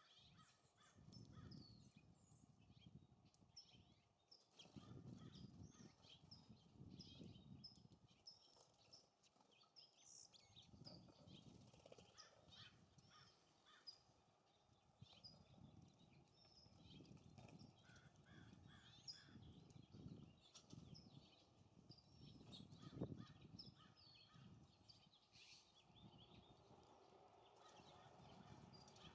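Small songbirds chirping and calling over and over in short, high notes, with gusts of wind rumbling on the microphone.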